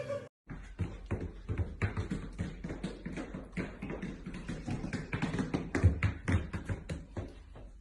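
Rapid, irregular taps and knocks, several a second, with one louder knock about six seconds in.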